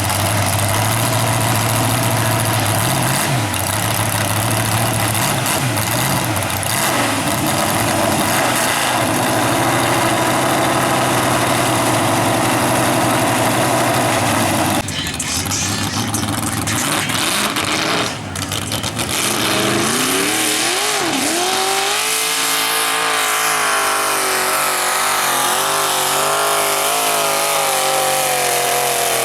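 Mud truck engine running hard at high revs. About halfway the sound changes abruptly, and later the engine pitch climbs and then wavers up and down as it revs.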